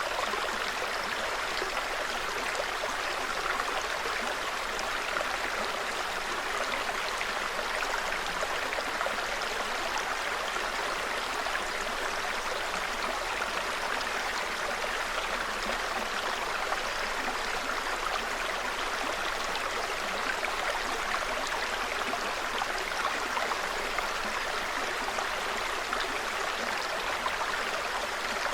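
Small forest brook babbling steadily over stones, an even rush of trickling water.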